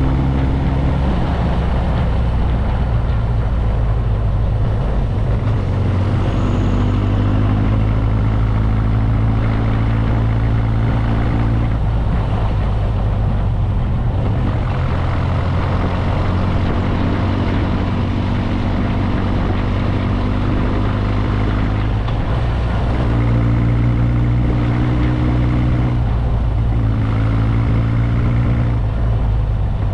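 Motorcycle engine running under way, its pitch holding steady for a few seconds at a time and shifting several times, over steady wind and road noise.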